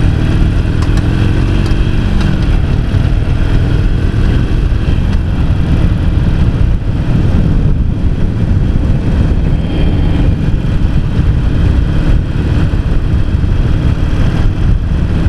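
Harley-Davidson Sportster XL883C's air-cooled V-twin engine running under way on the road. Its note drops about two seconds in, then holds steady.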